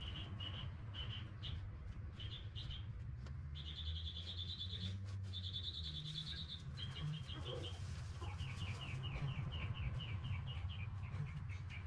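Birds chirping in quick repeated series throughout, with two fast, higher trills about four and six seconds in, over a low steady rumble.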